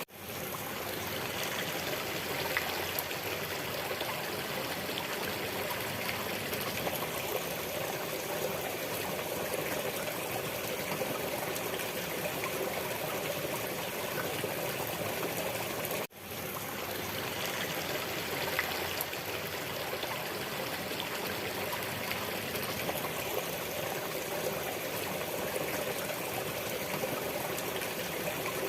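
Steady running water of a trickling stream. It cuts out for an instant twice, at the start and about halfway through, and swells back in each time.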